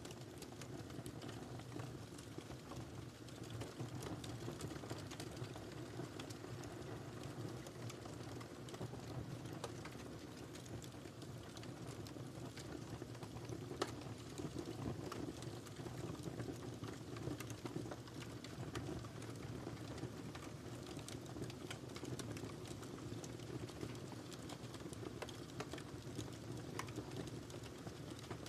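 Wood fire burning in a fireplace, a steady low rumble with irregular crackles and small pops, one sharper snap about halfway through.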